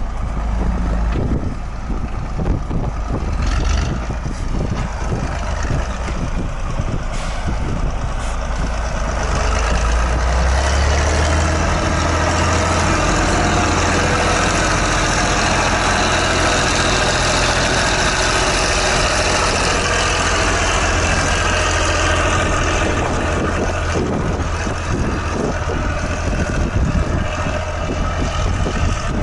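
Heavy farm tractor's diesel engine running steadily at work, with a louder whine from about ten seconds in until near twenty-four seconds.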